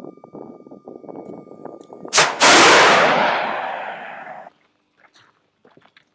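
Stinger missile launch: a sharp bang about two seconds in, then at once a loud rushing roar that fades away over about two seconds. Before the bang there is a crackling hiss with a thin steady high tone.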